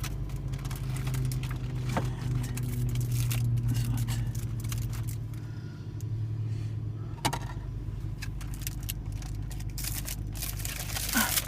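Steady low hum inside a Honda Civic's cabin, with scattered light clicks and rattles and a couple of sharper knocks, about two seconds in and about seven seconds in.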